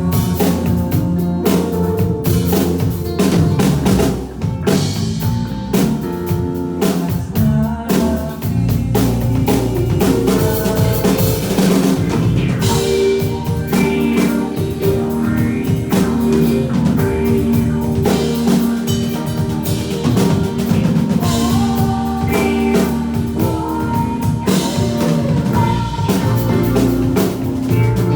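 Rock band playing live: drum kit keeping a steady beat with snare and bass drum, under bass and guitar.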